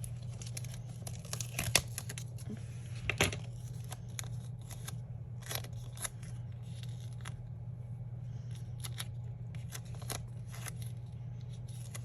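Stickers and paper sheets being handled: scattered crinkles, peels and light taps, with two sharper clicks in the first few seconds, over a steady low hum.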